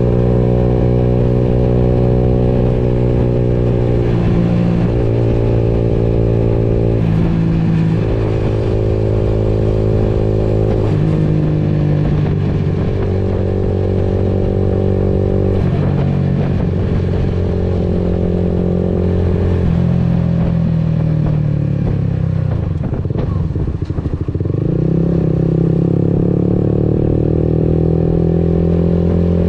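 Motorcycle engine running under way, its note holding steady, then stepping and gliding up and down several times with throttle and gear changes. About three-quarters of the way through it eases off briefly, then rises again.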